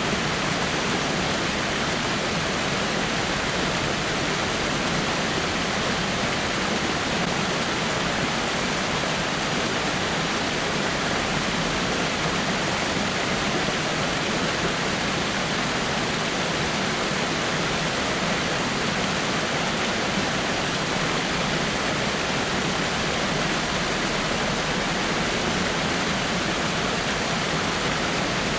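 Small rock waterfall: water falling and splashing over rocks in a steady, even rush.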